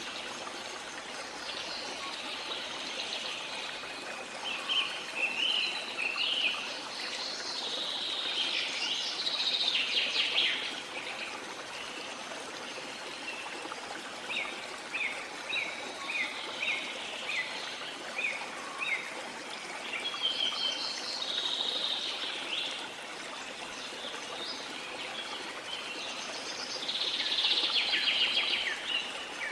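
Birds chirping and singing over a steady rush of running water. About halfway through, one bird gives a run of short, quick repeated notes; fuller bursts of song come early and again near the end.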